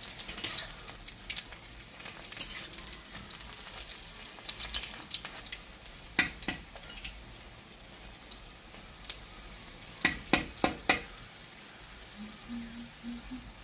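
Close-up chewing of crispy kalam saag (water spinach) pakoda fried in gram-flour batter: a steady crackle of crunching with a loud crunch about six seconds in and a cluster of loud crunches around ten to eleven seconds.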